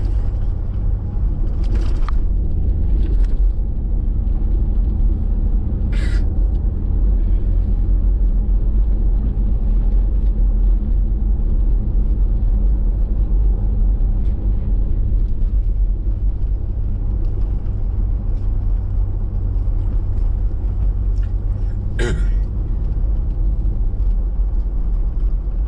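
Steady low rumble of a vehicle driving, heard from inside the cabin: engine and road noise. Three brief sharp clicks or knocks cut through it, the last near the end.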